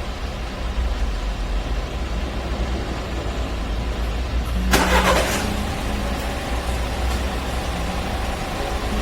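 Renault Clio engine started by a remote-start alarm: a short loud burst of cranking about five seconds in as it catches, then a steady idle.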